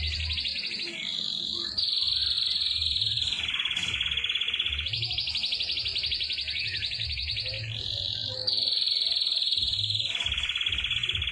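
Canary singing long, very fast rolling trills that run on without a break, switching every second or two between a higher and a lower pitch.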